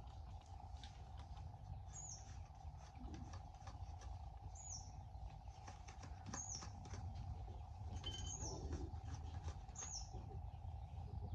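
A bird repeating a short, high, falling chirp about every two seconds, over a steady faint hum.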